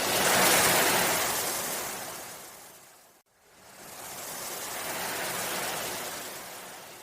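Ocean waves washing in: two swells of surf, the first peaking right away and fading out about three seconds in, the second building up and fading away.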